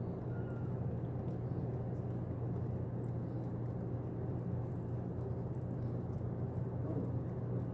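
Steady low hum and rumble, unchanging throughout.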